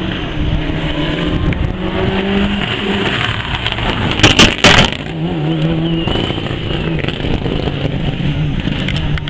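Rally car engine at full throttle, its pitch rising and dropping through gear changes. Two loud sharp bangs come about four and a half seconds in.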